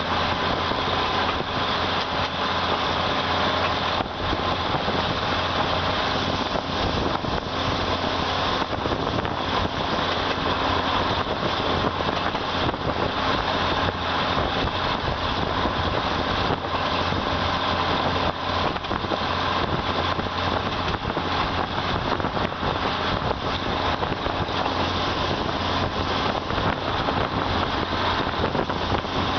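Passenger train running along the track, heard from an open carriage window: a steady rumble of the train with wind noise.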